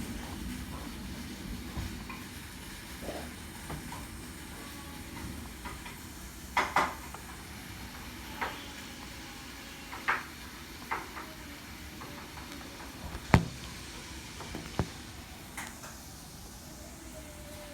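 Steady hiss of rain falling, with scattered sharp knocks and drips now and then, the loudest one about thirteen seconds in.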